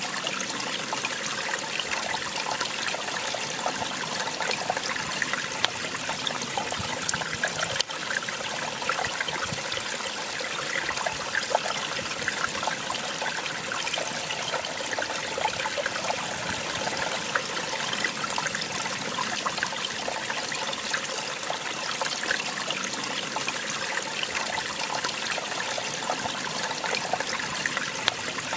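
Small waterfall splashing and trickling steadily, with one sharp click about eight seconds in.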